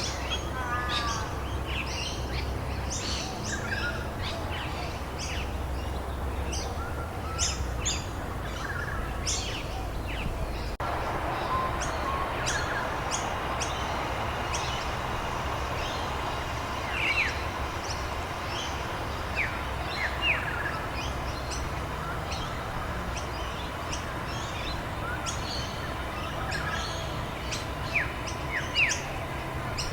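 Many small birds chirping and calling in quick, scattered notes over a steady background hiss. The background changes abruptly about eleven seconds in, as at an edit, and a few louder high chirps stand out later.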